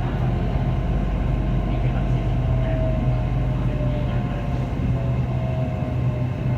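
Hitachi-built Red Line electric commuter train running, heard from inside the car: a steady low hum and rumble with a faint, level motor whine above it.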